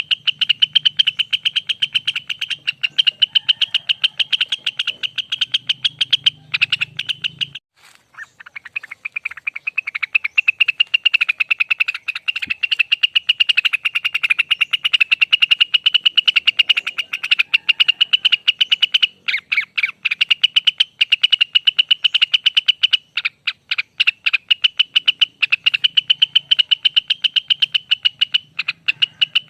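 Rengganis (cucak wilis) songbird singing its long rapid trill ('ropel'): a fast, steady string of short high notes, with one brief pause about a third of the way in.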